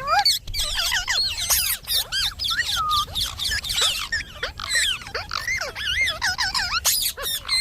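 Indian ringneck parakeet chattering: a rapid, unbroken run of short, shrill calls that swoop up and down in pitch.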